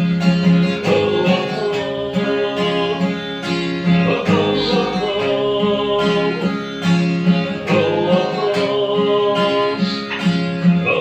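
Guitar playing an instrumental interlude between sung verses of a slow Indonesian folk-pop ballad, in a steady repeating rhythm of chords.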